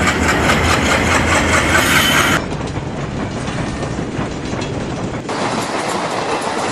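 Passenger train running on the track, wheels clattering over the rail joints with a steady rumble. The sound changes abruptly about two seconds in and again about five seconds in, as separate train recordings cut together.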